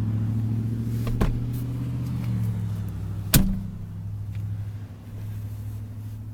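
A vehicle engine idling with a steady low hum, with two sharp clicks about a second in and a little past three seconds in.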